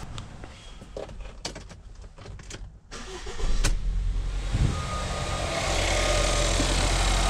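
A few small clicks and knocks, then about three and a half seconds in the 1.6 L EcoBoost turbocharged four-cylinder engine starts, flares briefly and settles into a steady idle.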